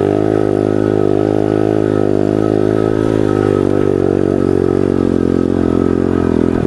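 Pit bike engine running steadily under throttle as the bike rides through a loose sand pile, its pitch wavering slightly.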